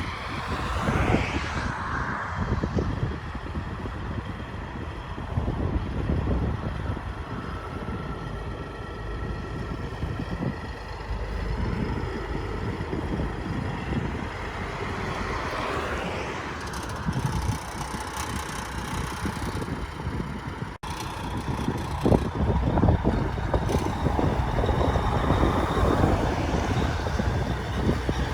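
Big trucks' diesel engines running, a steady low rumble with wind noise on the microphone; the sound changes abruptly about 21 seconds in.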